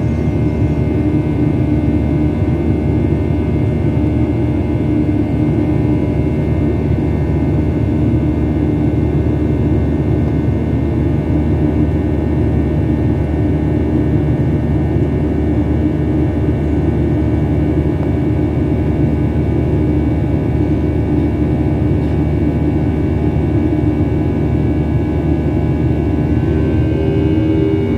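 Airliner cabin noise in flight: the steady drone of the engines and rushing air, with a stack of steady engine tones through it. The tones shift slightly near the end.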